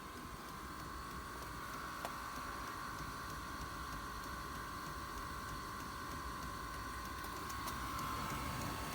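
Chinese 5 kW diesel air heater's fan motor running steadily with a whine after a flame-out, its fuel pump no longer ticking.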